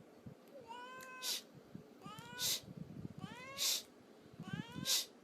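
A cat meowing four times, about a second apart, each bending call followed by a short hiss-like noise.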